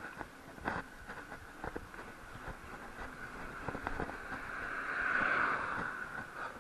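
Bike riding along a road: a steady hum over rushing noise, with scattered knocks and rattles, swelling louder about five seconds in.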